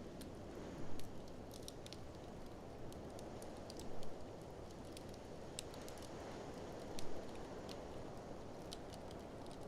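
Wood fire in a fireplace crackling: scattered sharp pops and snaps over a steady low rumble, with a louder crackle about every three seconds, three times.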